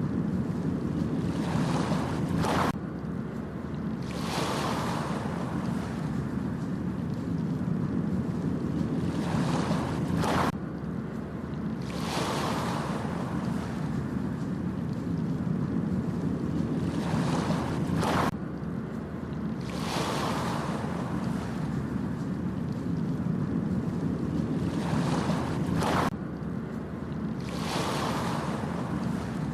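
Ocean waves breaking on a beach over a steady low rumble of surf. About every eight seconds a wash of surf swells up and ends in a sharp crash, four times in all.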